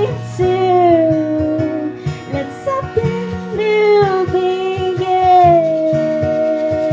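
Live acoustic song: a woman sings a melody over a strummed acoustic guitar, settling into a long held note near the end.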